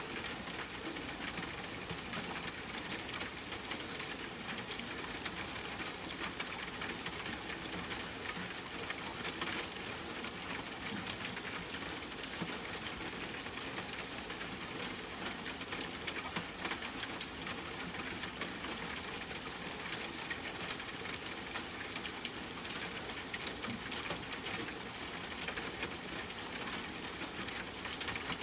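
Steady rain: an even hiss dotted with many small drop ticks, with one sharper, louder drop about eight seconds in.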